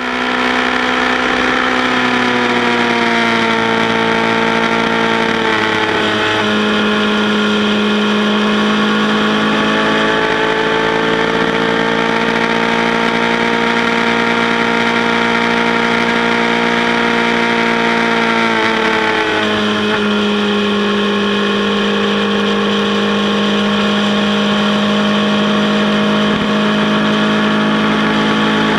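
Motorcycle engine running steadily at cruising speed, heard from the rider's seat with wind rush. Its note eases down over the first few seconds, breaks briefly about six seconds in, and drops slightly about nineteen seconds in.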